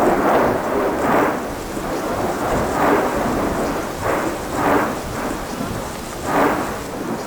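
Mount Etna erupting: a continuous rumbling noise broken by irregular louder blasts every second or two.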